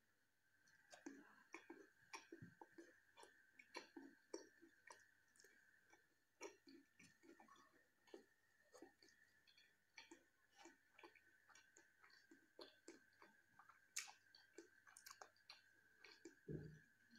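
Faint close-up chewing of a hand-eaten meal of rice, jackfruit curry and paratha: many small, irregular wet mouth clicks over a steady faint high-pitched hum. A soft low thump comes near the end.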